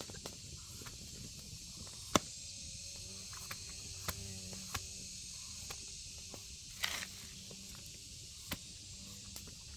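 Steady high hiss of background ambience, broken by scattered sharp clicks and knocks, the loudest about two seconds in, with faint distant voices in the middle.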